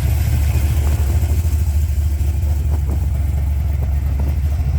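Car engine idling with a steady, deep low rumble.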